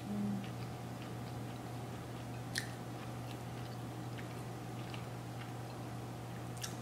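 Faint mouth-closed chewing of a bite of soft, not-very-crispy pretzel dog: pretzel dough wrapped around a hot dog. Small moist mouth clicks are scattered through it, with one sharper click about two and a half seconds in and a brief hummed 'mm' at the very start, over a steady low electrical hum.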